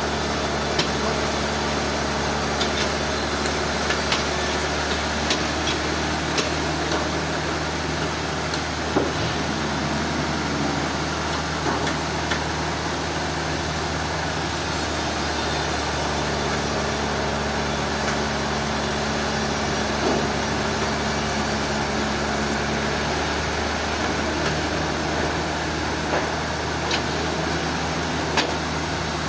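Sawmill machinery running steadily with a low engine hum and a constant mechanical noise. Short sharp clicks and knocks come every few seconds.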